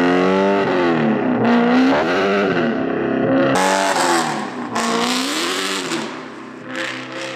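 BMW E92 M3's S65 V8 engine revving hard, its pitch climbing and falling several times under acceleration. A loud rushing noise joins in for a couple of seconds midway.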